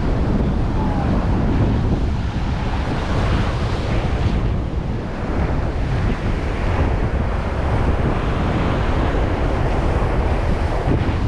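Wind buffeting the microphone over the steady wash of surf on a sandy beach.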